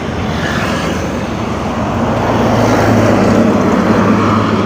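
Fast highway traffic passing close by: steady tyre and engine noise, with one vehicle's engine hum swelling louder about halfway through.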